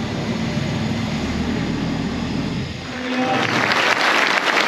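Motorcycle engine running with a low, pulsing beat, then shut off about three seconds in, followed at once by applause that grows louder.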